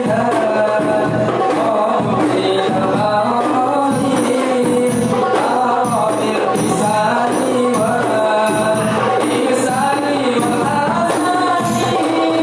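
Rebana frame drums played together in a steady, continuous rhythm, with voices singing a melody over them.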